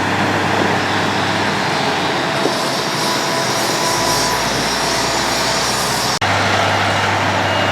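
Road planer (cold milling machine) at work: a loud, steady grinding and engine noise as it mills the road surface, with a sudden brief break about six seconds in.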